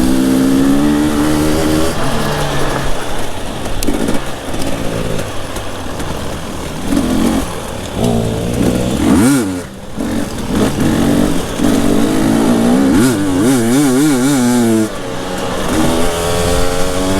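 Enduro dirt bike engine revving up and down as it is ridden hard off-road. The throttle is shut briefly about ten seconds in, followed a few seconds later by a spell of quick rises and falls in revs.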